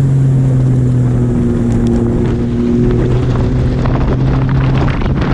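Bass boat's outboard motor running steadily at speed, a constant hum under a hiss of wind and spray, with crackling water noise from about two seconds in.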